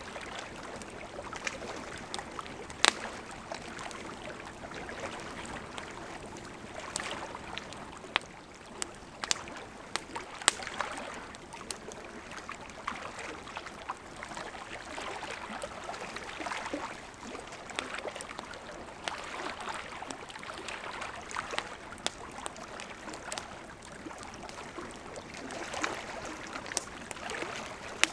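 Wood fire crackling: a steady hiss of burning with sharp pops scattered throughout, a few of them standing out loudly.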